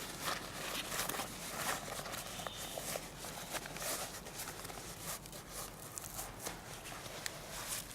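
Irregular clicks and rustling, with a faint high whistled note now and then.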